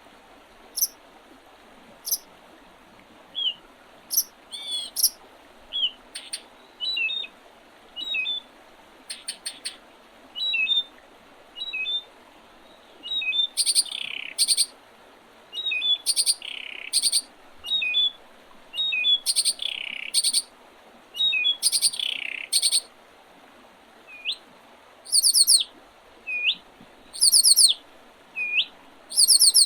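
Several small songbirds calling and singing in early spring: many short, high chirps and thin notes throughout, with a few longer, louder phrases in the middle. Near the end comes a run of repeated short, hooked notes.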